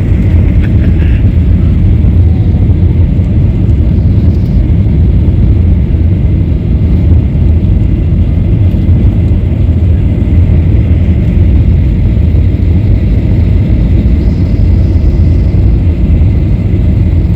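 Steady low rumble of an airliner in flight heard from inside the passenger cabin: engine and airflow noise.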